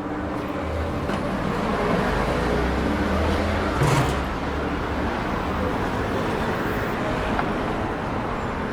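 City street traffic: a motor vehicle's low engine rumble builds and passes close over the first few seconds, over a steady background of road noise. A single sharp knock sounds about four seconds in.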